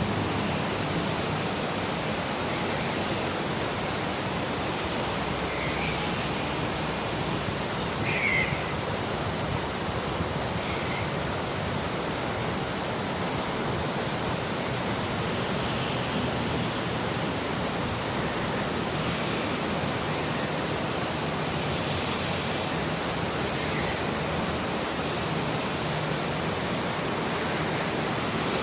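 Mountain river rushing steadily, with a handful of short, high gull calls over the water noise, the clearest about eight seconds in.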